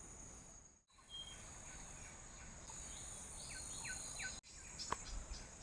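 Faint jungle ambience: a steady high drone of insects, with a few short chirps of a bird a little past the middle. The sound cuts out for an instant twice.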